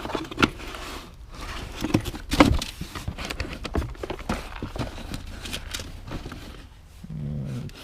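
Small tools and router bits being rummaged through in a box: an irregular run of clinks and knocks, loudest about two and a half seconds in.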